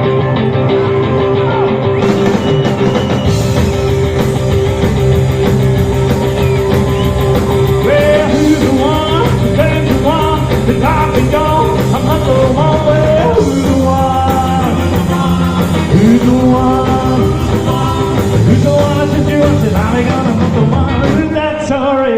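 Rock-and-roll band music. A long held note sounds for the first several seconds, then a melodic line moves over a steady band backing.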